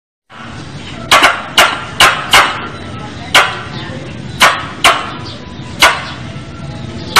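Squirrel calling: a series of sharp, short chips, about eight of them, irregularly spaced at half-second to one-second intervals. This is the kind of recorded call used as a lure to draw squirrels in.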